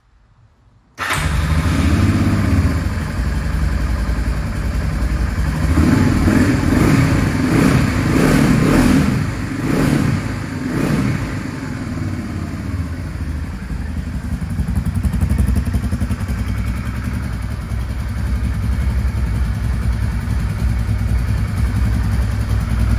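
Honda Africa Twin RD03's V-twin engine starting about a second in, blipped several times and then settling to a steady idle.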